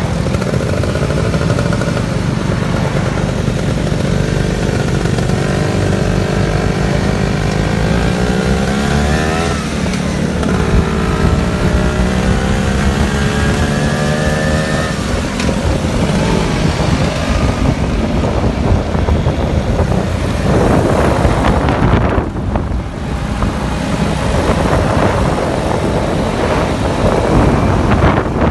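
Motorcycle engine under way, its pitch rising as it accelerates, dropping at a gear change about ten seconds in, then climbing again; it eases off briefly later on.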